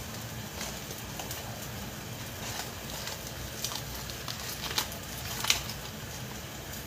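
Tomato-and-spice curry base cooking in oil in a clay pot, sputtering with scattered crackles and pops over a steady low background, one sharper pop about five and a half seconds in.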